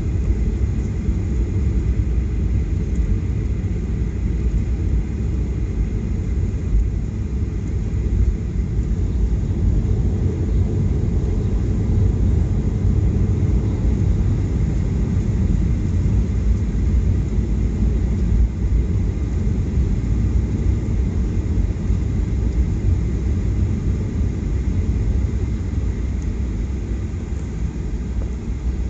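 Steady low rumble inside the cabin of a Boeing 737-800 airliner on the ground before takeoff, even and unbroken throughout.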